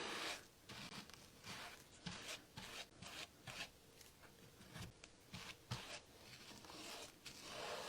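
Faint, irregular scratchy strokes of a brush spreading Mod Podge over a sign's surface.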